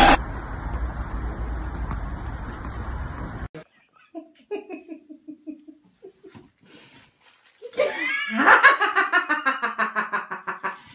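A steady hiss that cuts off suddenly after about three seconds, then a few short vocal sounds that fall in pitch. Near the end comes loud, hearty laughter in quick rhythmic bursts.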